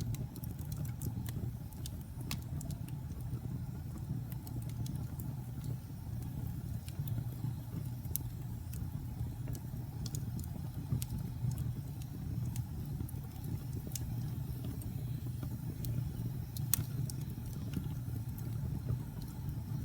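Wood fire burning in a fireplace: a steady low rumble of the flames with scattered sharp crackles and pops, one louder pop near the end.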